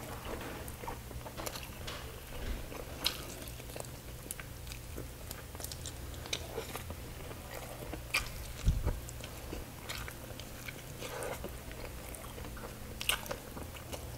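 Close-miked chewing and wet mouth clicks of a person eating chicken and rice by hand, with many short irregular smacks. One low thump comes nearly nine seconds in.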